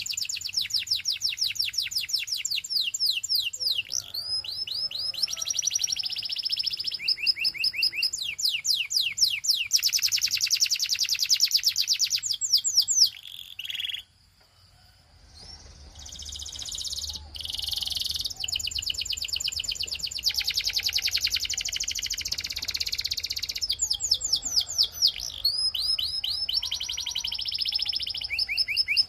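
Canary singing a long song of fast trills, rolls of rapidly repeated high sweeping notes that change in speed and pitch from phrase to phrase. The song breaks off about halfway through for a second or two, then starts again.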